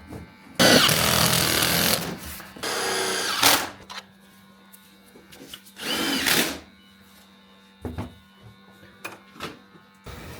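Power drill running in three short bursts, its motor pitch rising and falling with each run, followed by a few light knocks.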